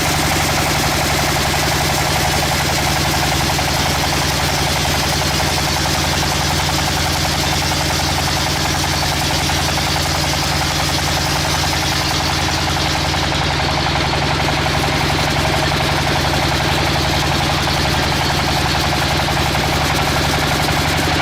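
Sawmill machinery running steadily, a constant engine-like drone with an even hiss over it.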